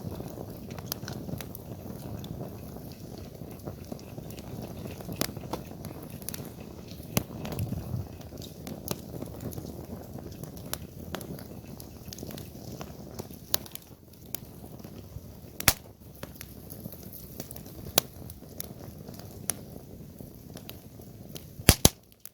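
Wood campfire burning: a steady low rush of flames with frequent sharp crackles and pops from the burning wood, the loudest a quick pair of pops near the end.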